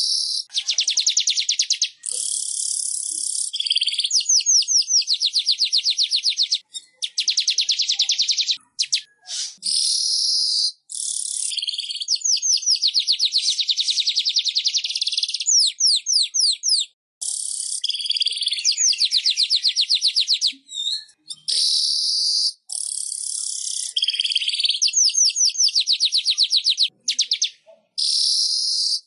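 Manyar weaver bird song: runs of rapid ticking trills alternating with hissy, buzzy phrases, repeated over and over with short breaks.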